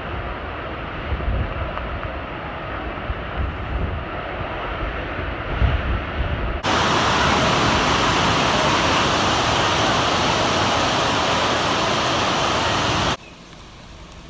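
Storm wind and rain: gusty wind buffets the microphone with low rumbles, then about six seconds in the sound jumps abruptly to a loud, steady rushing hiss of driving rain and wind. Near the end that hiss cuts off sharply to a much quieter background hiss.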